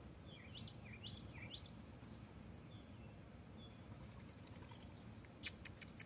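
Faint birdsong: a few quick up-and-down sweeping chirps in the first couple of seconds and several short falling whistles, then a rapid series of sharp clicks near the end.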